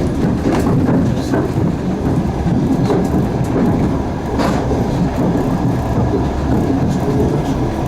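Passenger train running at speed, heard from inside the carriage: a steady rumble of wheels on rails, with a few sharp clicks.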